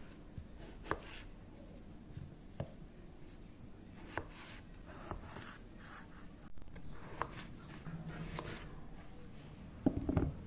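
A blade working a raw potato close to the mic: irregular short scraping strokes and light taps, with a louder cluster of knocks near the end.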